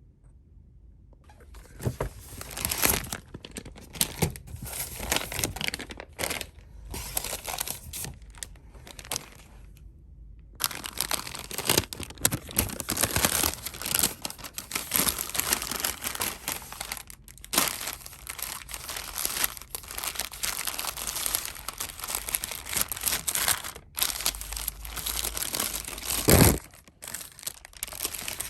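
Plastic packaging crinkling and tearing as it is handled and opened, in two long stretches with a short pause between them. A single loud thud about two seconds before the end.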